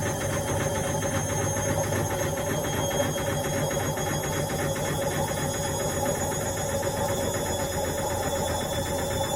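Indesit washing machine running steadily: a motor hum with a fast, even mechanical rattle and a faint high whine.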